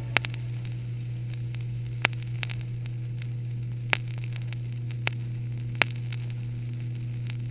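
Vinyl LP playing a silent stretch of groove between pieces: surface noise over a steady low hum, with a sharp click about every two seconds, which fits one scratch coming round once per turn of a 33⅓ rpm record, and a few fainter ticks between.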